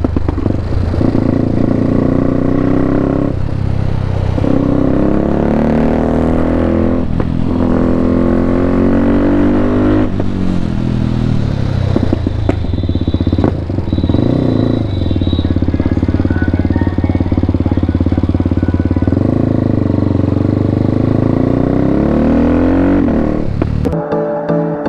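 KTM RC 390's single-cylinder engine through a full Akrapovic exhaust system, ridden hard: the engine pitch climbs and drops again and again as it revs up through the gears, with short dips at each change. Music comes in near the end.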